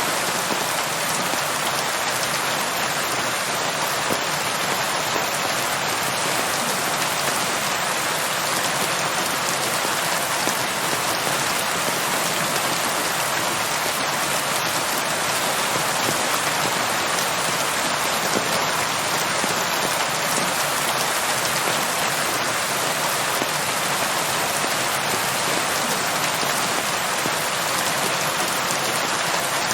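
Steady rain falling, an even hiss of many drops that stays level throughout, with no thunder.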